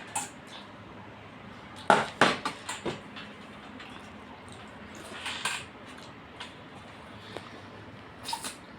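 Eating sounds: mouth smacks and chewing, with food and dishes being handled during a meal of rice and fish curry. There is a quick run of sharp smacks and clicks about two seconds in, a softer noisy stretch around five seconds, and another short click near the end.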